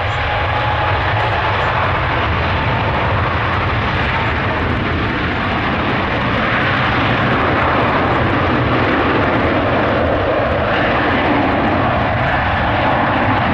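Twin turbofan engines of a Boeing 777-300 at takeoff thrust on departure: a loud, steady jet roar with a thin whine running through it that rises gently at the start.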